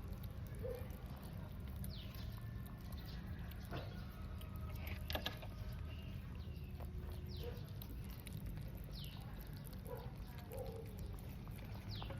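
British Shorthair cats eating pate: soft wet licking and chewing with small clicks and quick smacks scattered throughout, over a steady low hum.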